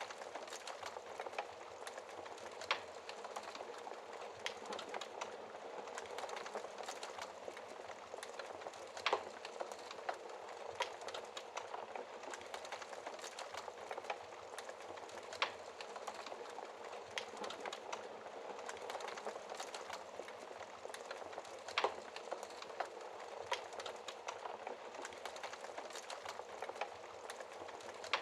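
Wood fire crackling in a fireplace: a steady hiss of small crackles with a handful of louder pops scattered through.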